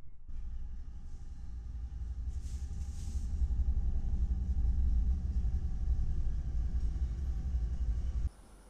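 Freight train passing close by behind BNSF diesel locomotives, making a steady low rumble, with a brief hiss about two to three seconds in. The rumble cuts off abruptly near the end.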